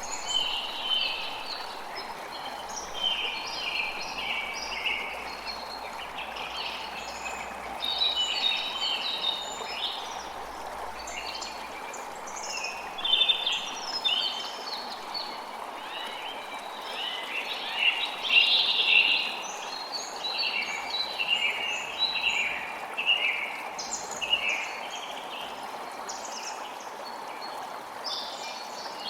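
Many forest birds singing and twittering at once, phrase after phrase overlapping, over the steady rush of a flowing creek.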